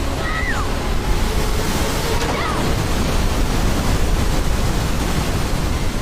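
Steady rush of heavily falling water, like a waterfall, with two brief high whistles that fall in pitch, the first just after the start and the second about two seconds later.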